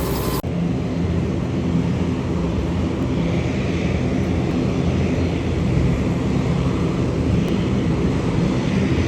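Helicopter running steadily, a loud, even low drone of engine and rotor. The sound changes abruptly about half a second in, then holds steady.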